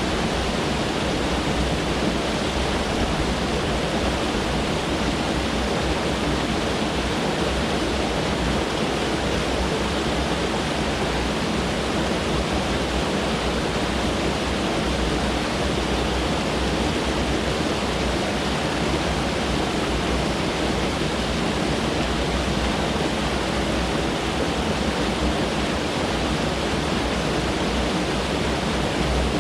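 Mountain stream rushing over rocks: a loud, steady, even rush of water.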